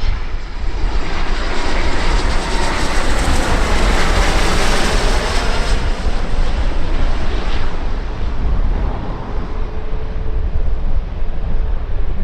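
Jet airliner's engines passing by, the noise building to its loudest about four to five seconds in and then fading away, over a steady low rumble.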